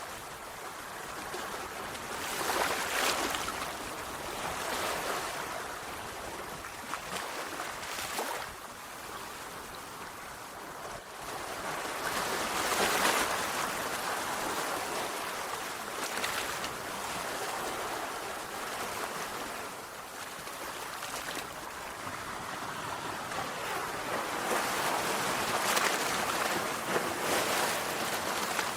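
Sea waves breaking on a shore: a steady wash of surf that swells into a louder break every few seconds, with the strongest breaks about halfway through and near the end.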